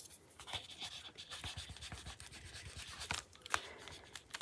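Paper journal pages being shuffled and rubbed against one another as they are lined up by hand, with a few light taps.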